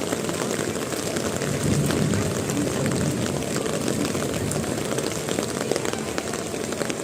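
Heavy rain pouring down: a steady hiss with many scattered drop taps over a low rumble.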